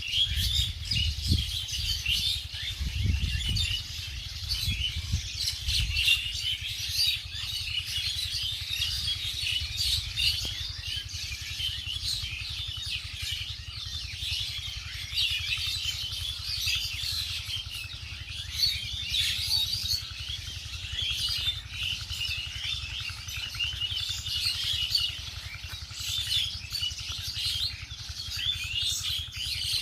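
Many small birds chirping at once, a dense, unbroken chorus of short high chirps. A low rumble comes and goes during the first six seconds.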